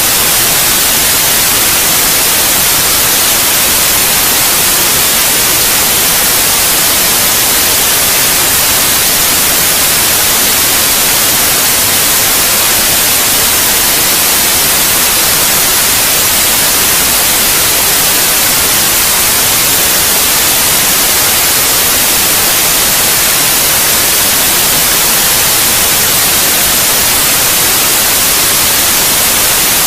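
Steady white noise: an even, unbroken hiss that is strongest in the high end and never changes.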